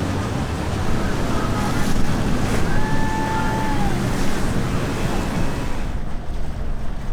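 Wind buffeting the microphone over open water, a loud steady rush mixed with waves and boat engine rumble. About two and a half seconds in, a faint held tone sounds for about a second and a half.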